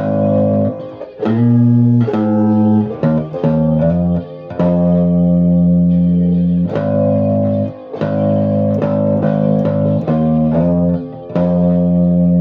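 Guitar music: held, ringing chords broken by short runs of picked notes, about a second in and again near the end.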